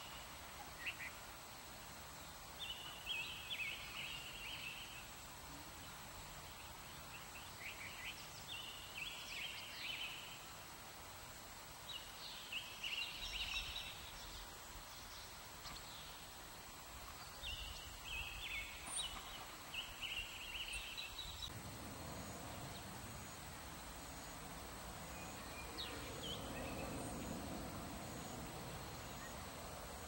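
A songbird twittering in four short bouts of quick, bright chirps, spaced a few seconds apart, over a faint outdoor background. The calls stop after about two-thirds of the way, and a fuller low background noise takes over.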